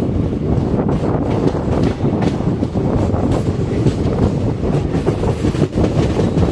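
Goods train wagons rolling along the track: a loud, steady rumble with irregular clacks of the wheels over rail joints.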